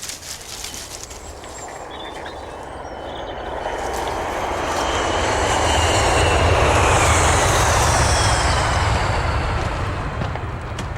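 An aircraft passing overhead. Its engine noise swells to a peak about two-thirds of the way through and then fades, and a high whine slowly falls in pitch as it goes by.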